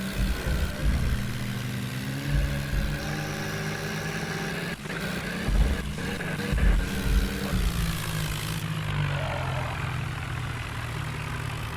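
Heavy diesel engine running steadily, its pitch shifting up and down a little, with a few deep low thumps in the first half.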